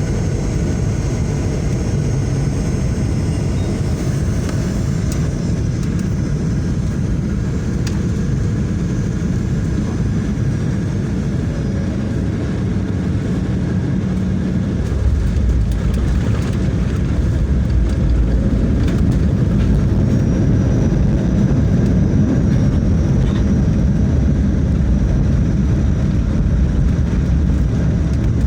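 Steady engine and airflow noise inside a jet airliner's passenger cabin, with a deeper, louder rumble coming in about halfway through.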